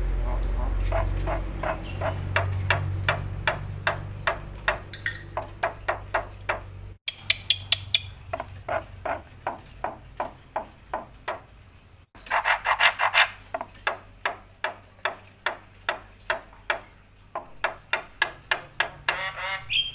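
Black-winged starling (jalak putih) calling: a long run of sharp, clicking notes repeated about three times a second, broken by louder, harsh chattering phrases about eight and twelve seconds in.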